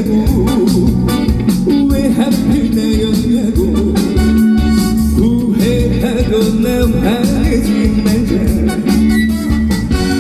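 Live band playing an instrumental passage of a trot song: guitar lines over bass and a steady drum beat.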